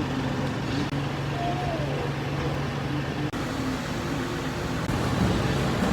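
Garbage truck's engine running steadily at low speed, a deep even hum, with a brief high falling tone about a second and a half in.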